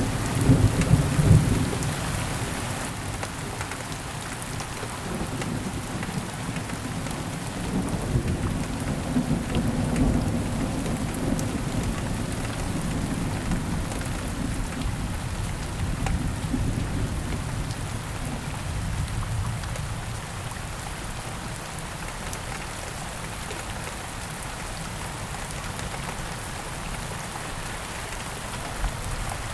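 Steady rain falling with rolling thunder: a loud rumble in the first couple of seconds, another long rumble from about eight to twelve seconds in that fades away by about twenty seconds, leaving only the rain.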